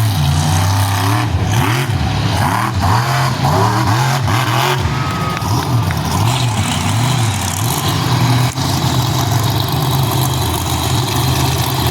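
Monster truck engines revving hard as they race, the pitch rising and falling again and again, then held more steadily high in the later part.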